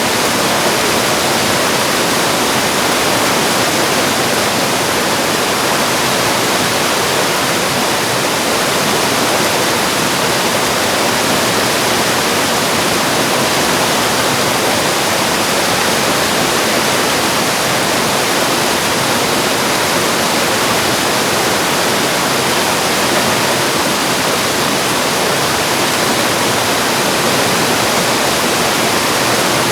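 Mountain stream rushing over rocks in a steady, loud, unbroken rush.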